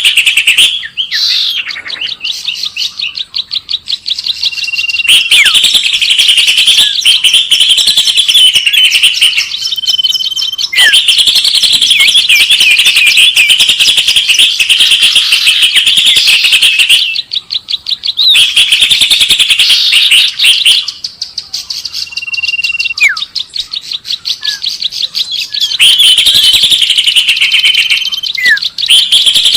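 Recorded songbird calls used as a bird lure: rapid, dense chirping in long bouts of several seconds, broken by short pauses holding single whistled notes that drop in pitch at the end.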